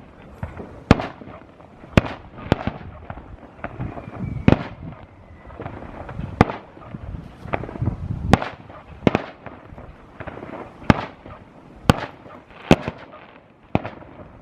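Aerial fireworks display: a string of sharp bangs about once a second, some louder than others, with rumbling and crackling between them.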